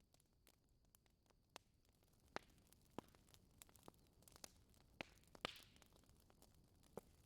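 Wood fire crackling in a fireplace: faint, irregular pops and snaps, with a handful of louder pops scattered through.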